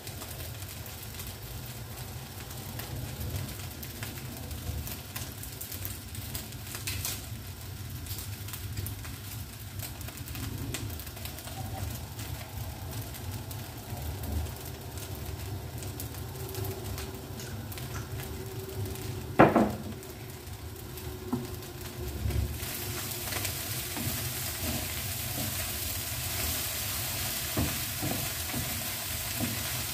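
Egg fried rice sizzling in a hot frying pan, stirred and scraped with a spatula. There is one sharp knock about two-thirds of the way in, and after it the sizzling turns louder and hissier.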